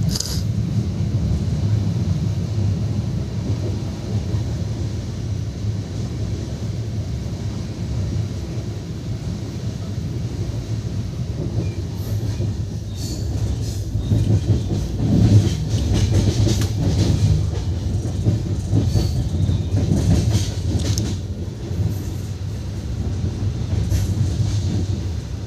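Express train's passenger coach running along the track, heard from inside: a steady low rumble. Through the second half come irregular clicks and clacks of the wheels over the rail joints.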